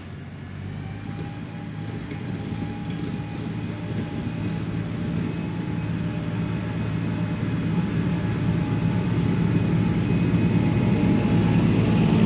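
The 1985 John Deere 1050 tractor's three-cylinder diesel engine running steadily, its low hum growing louder throughout.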